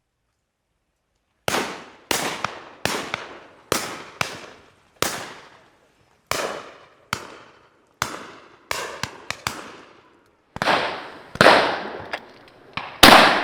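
Shotguns firing on a driven game shoot: a rapid string of about eighteen shots from several guns over roughly twelve seconds, starting after about a second and a half. Some shots come in quick pairs, each report trails off in an echo, and the loudest shots come near the end.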